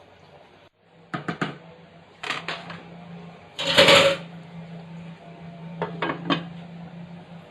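Cooking pot and utensils knocking and clattering in a series of short knocks, the loudest and longest about four seconds in, over a low steady hum.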